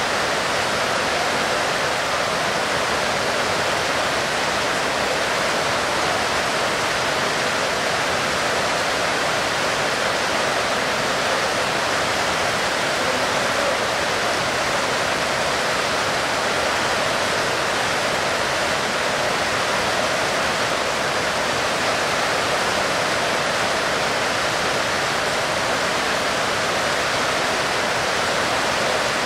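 Heavy rain falling steadily: an even, unbroken hiss with no single drops or gusts standing out.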